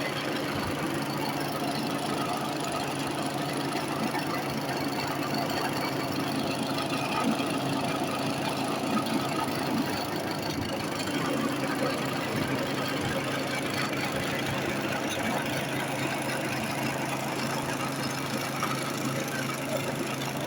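An engine running steadily, with a constant low hum under an even noisy haze.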